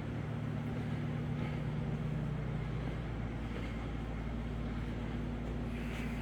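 A steady low mechanical hum with a constant low pitch.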